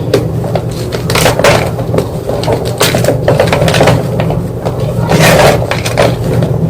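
White gym chalk paste crunching and crumbling in repeated irregular crunches, a little over one a second, louder at about 1.5, 3 and 5.5 seconds in, over a steady low hum.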